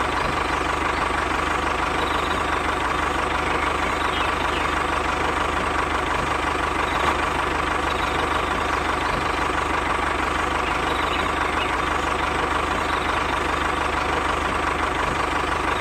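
Steady engine-like machine running at a constant pitch and level, with a held tone throughout and no change in speed.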